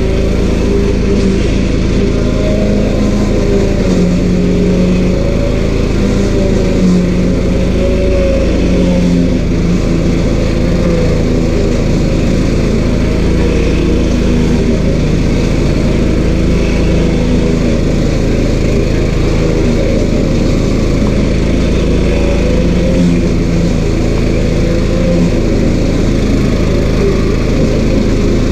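A small stump grinder's 13 HP Honda engine running steadily and loudly, its pitch wavering slightly.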